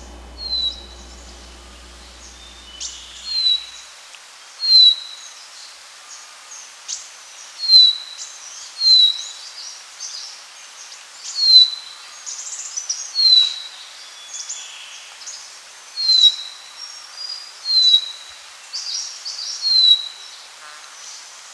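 Birdsong: a bird repeating a short downward-slurred whistle, about one every one to two seconds, mixed with other higher chirps, over a faint steady hiss.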